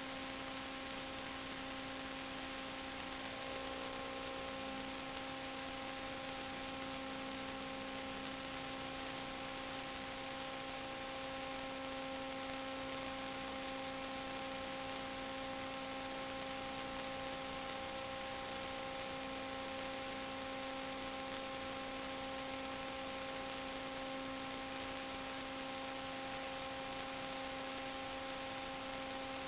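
Steady electrical hum with several fixed tones over a hiss, unchanging throughout, on a recording with no high frequencies.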